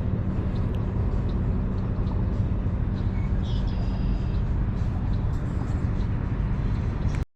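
Sailboat's inboard engine running steadily: a constant low rumble with a steady hum, cutting off suddenly near the end. A few faint high chirps come about three and a half seconds in.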